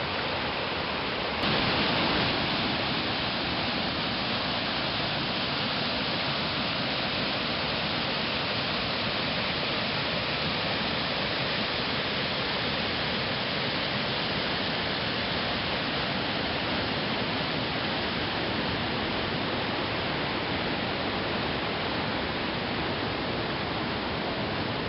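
A waterfall in full spate, swollen by rain and snowmelt, giving a steady, dense rush of falling water. It gets a little louder about a second and a half in.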